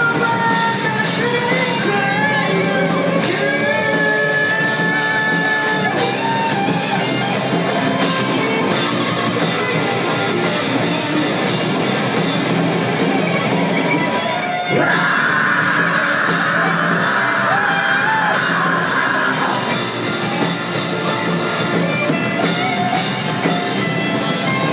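Rock band playing live, with drum kit and electric guitars, and a brief stop a little past halfway before the full band comes back in.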